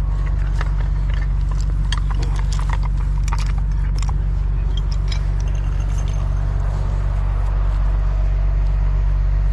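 Heavy tow truck's diesel engine idling steadily, with sharp metallic clinks of chain and rigging hardware being handled, most of them in the first half.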